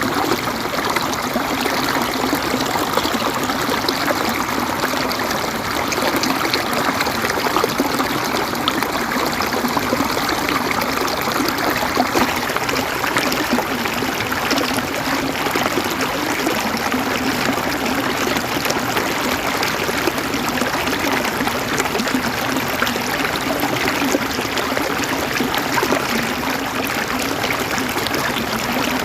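River water flowing and gurgling over stones in a steady, dense rush.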